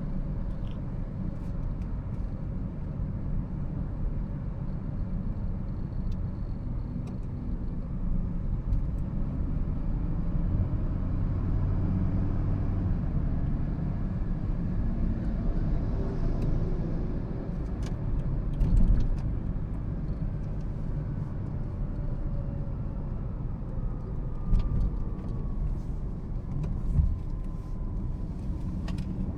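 2013 Toyota Prius on the move: a steady low road and tyre rumble, with a faint whine that slides up and down in pitch and a few short knocks, the loudest about two-thirds of the way through.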